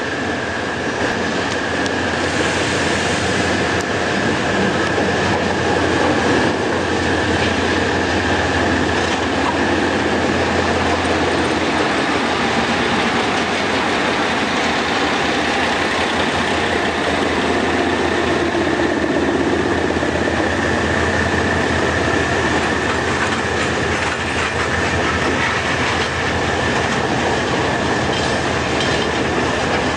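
Metre-gauge train hauled by GE UM12C diesel-electric locomotives running steadily over the track, with wheels clacking on the rails, a thin steady high squeal and a low engine hum underneath.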